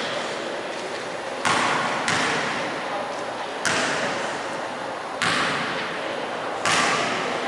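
A run of five sudden thuds echoing in a large gym hall, at uneven gaps of about half a second to a second and a half, each ringing out for a moment before the next.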